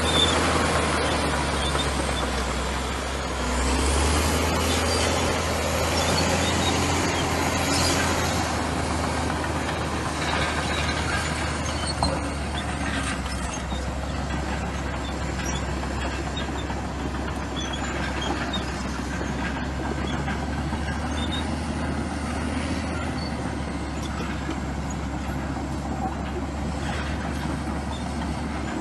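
Komatsu bulldozer working: its diesel engine runs steadily under load, with occasional knocks and a faint high squeal from the tracks and blade.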